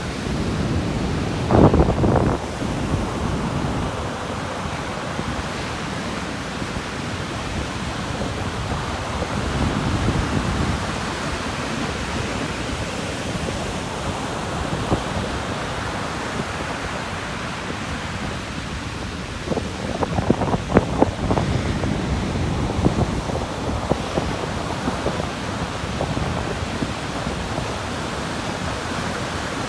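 Sea waves washing onto a beach in a steady rush of surf, with wind buffeting the microphone. Louder surges with crackling come about two seconds in and again about twenty seconds in.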